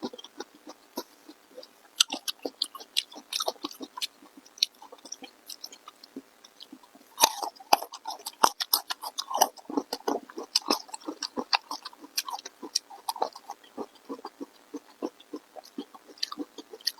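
Close-miked chewing: a person eating, with quick, irregular wet clicks and smacks of the mouth coming in flurries. It is busiest about two seconds in and again from about seven to eleven seconds.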